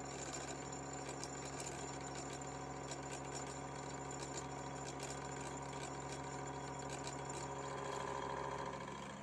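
A machine motor running with a steady hum, over faint scattered ticks and rattles.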